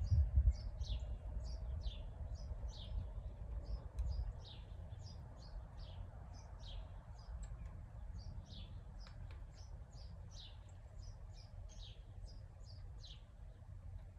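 Songbirds chirping: short, high, downward-sliding chirps, a few each second, keep coming without a break. Beneath them runs a low rumble that is loudest in the first few seconds and eases off after about four seconds.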